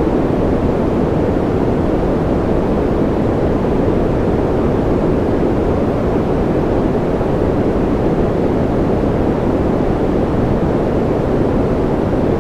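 Steady, unchanging white-noise track, deep and muffled rather than hissy, with no drops or individual sounds in it.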